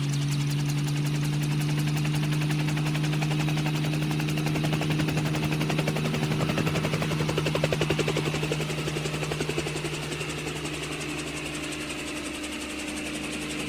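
An engine running steadily with a low hum and a fast, even pulsing that grows louder about halfway through, then eases off.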